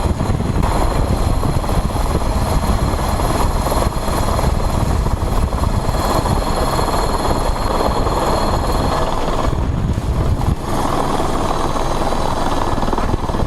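Police helicopter's rotor and engine running loud and steady, with a fast rotor flutter. There is a brief dip about ten and a half seconds in.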